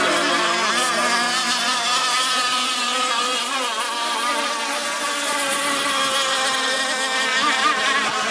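Several gas-powered RC racing catamarans' small two-stroke engines buzzing at high revs together, their pitches wavering up and down as they run the course.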